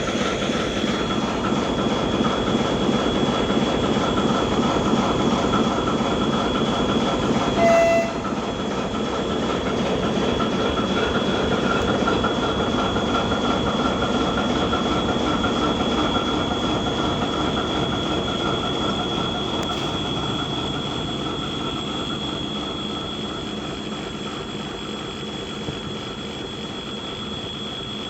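ChME3 diesel shunting locomotive running as it moves, with a steady high whine over the engine noise. A short, loud tone comes about eight seconds in, and the sound slowly fades over the last third as the locomotive draws away.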